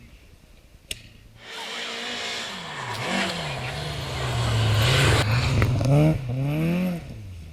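Rally car approaching and passing at speed, its engine revving hard with the pitch rising and dropping several times as it changes gear, loudest about five to six seconds in and falling away near the end. A single sharp click about a second in.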